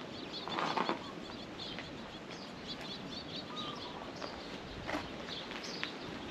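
Small birds chirping repeatedly in short high notes, with a brief scuffing sound about half a second in.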